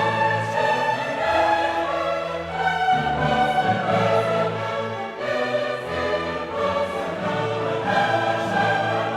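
Classical choral music: a choir singing sustained chords with an orchestra.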